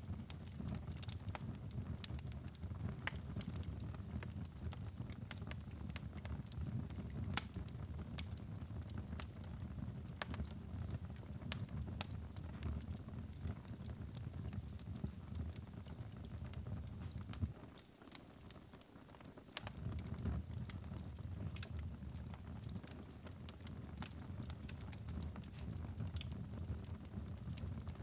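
Wood fire burning in a fireplace: a low steady rumble of flames with frequent sharp crackles and pops. About two-thirds of the way in, the low rumble drops away for a second or so while the crackles go on.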